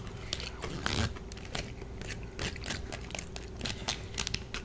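Close-miked chewing and wet mouth clicks of a person eating, with light clicks of a plastic fork scooping macaroni and cheese from a plastic tub.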